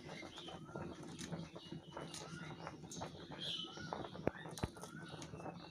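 A bird calling over and over, short chirps that rise and fall about once a second, with scattered light knocks and two sharper ones a little after four seconds in.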